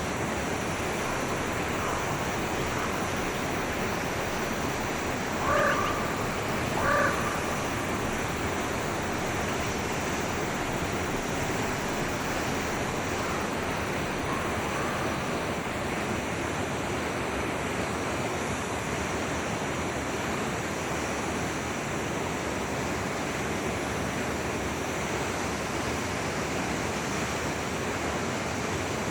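A forest stream flowing steadily. About five and a half seconds in come two short animal calls a little over a second apart, the loudest sounds here, and fainter calls follow later.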